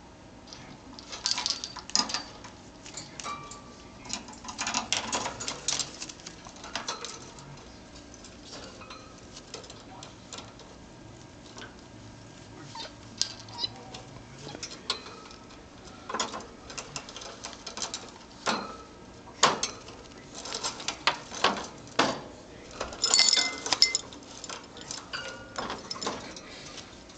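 Irregular sharp tapping and clicking in clusters, as a pet bird pecks at and shakes a small toy worm against a hard surface.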